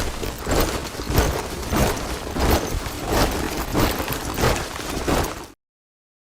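A body of soldiers marching in step, boots striking the ground with a strong beat about every two-thirds of a second and a clatter of other footfalls between. It cuts off abruptly about five and a half seconds in.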